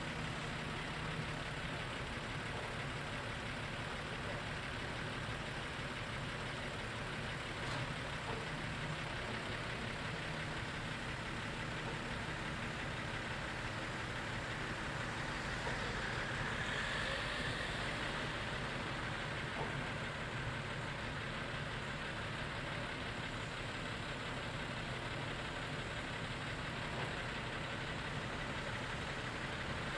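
An engine running steadily at idle, swelling slightly for a few seconds about halfway through.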